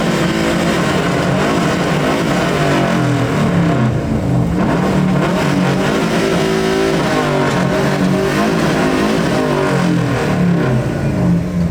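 Subaru flat-four engine revving up and down repeatedly, its pitch rising and falling throughout.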